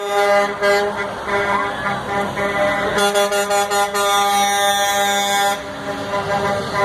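Truck air horns blasting in a parade convoy: a string of short honks, then one long blast of about two and a half seconds, then more honks near the end.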